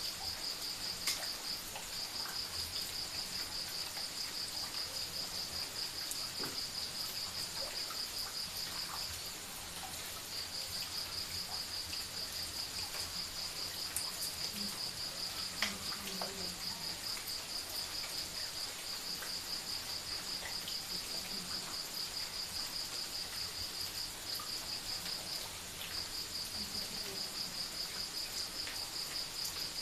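Crickets chirping at night in a fast, steady, high-pitched pulsing trill that drops out briefly twice.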